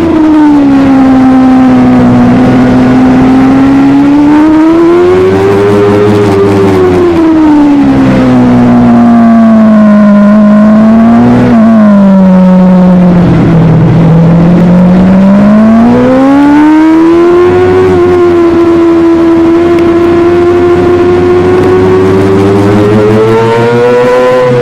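Superbike engine at high revs, its pitch rising and falling in long smooth sweeps as the throttle is worked. It sinks to its lowest around the middle, then climbs and holds high near the end.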